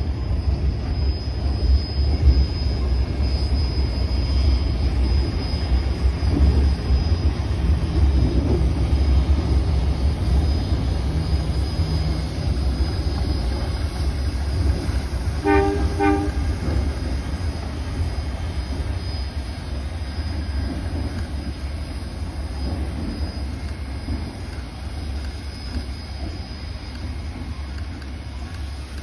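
Heritage passenger train rolling across a steel girder rail bridge with a steady low rumble that slowly fades as it moves away. About halfway through, the train gives one short toot.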